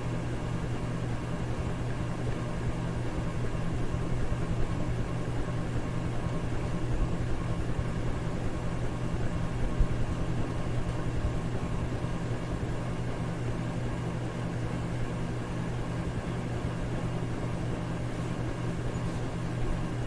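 Electric fan running steadily: an even airy noise over a constant low motor hum, with no change throughout.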